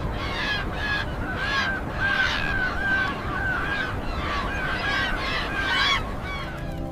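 A flock of birds honking and calling over and over, several short calls a second and overlapping, stopping abruptly about six seconds in.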